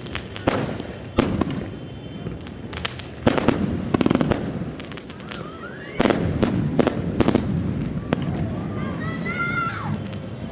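Aerial fireworks going off in a series of sharp bangs that echo, with a dense run of crackling about three to four seconds in and a rising whistle around the middle.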